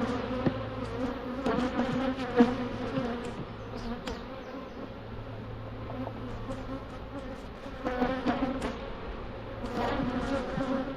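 Honeybees buzzing in numbers around an opened hive, a steady hum from a colony stirred up by the opening and now calming down. A few light knocks sound faintly over it.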